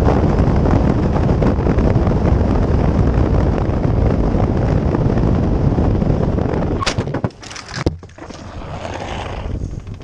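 Loud wind and road noise of a moving motorcycle, cut off about seven seconds in by a quick cluster of sharp impacts: the motorcycle crashing. Afterwards the rumble drops away to a much quieter hiss.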